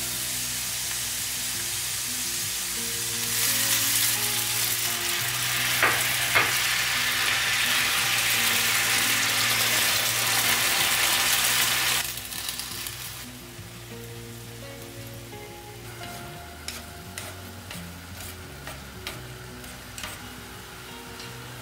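Baby octopus and garlic sizzling in olive oil in a cast-iron skillet. The sizzle grows louder about three seconds in as spaghetti is tossed through with chopsticks, then falls away sharply about twelve seconds in, leaving light taps of the chopsticks against the pan.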